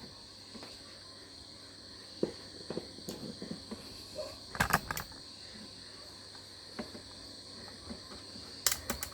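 A steady high chirring, like crickets, with scattered knocks and clicks, the loudest cluster about halfway through and another near the end.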